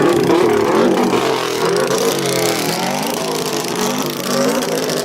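Car engine revving at high volume, its pitch repeatedly rising and falling as the throttle is blipped in a rev battle.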